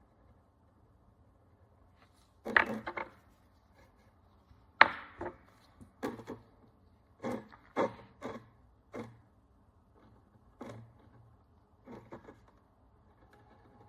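Hand tools knocking and scraping against a hard work surface: about a dozen short, sharp knocks at irregular intervals, the loudest two near the start.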